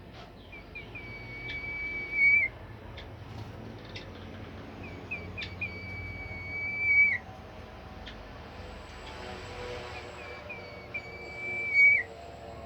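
A songbird (the 'bimoli' of Indonesian bird-keepers) singing three times, each phrase a few short chirps running into one long, steady whistled note that dips at its end.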